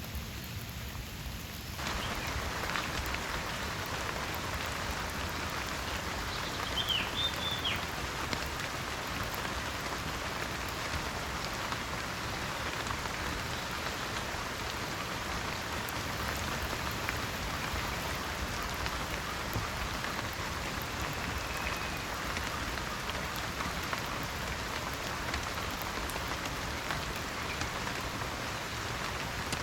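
Steady rain falling, a dense patter of drops that grows louder and fuller about two seconds in. A brief high chirp sounds about seven seconds in.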